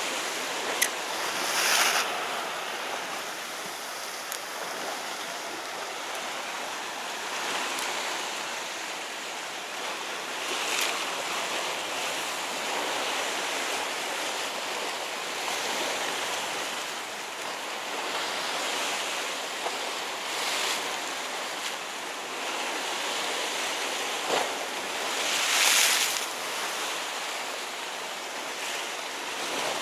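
Sea surf washing against shore rocks, a steady rush that swells several times, most strongly near the end, with wind on the microphone and a couple of sharp clicks.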